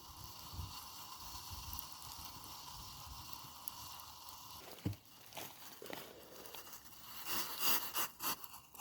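Handling noises: crinkling and rustling, with a single knock about five seconds in and a cluster of clicks and crinkles near the end.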